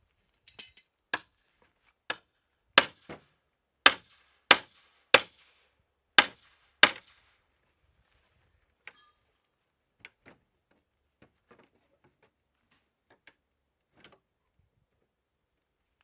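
Hammering: about ten loud, sharp strikes with a brief ring, roughly one every half-second to second, followed by a few much lighter, fainter taps.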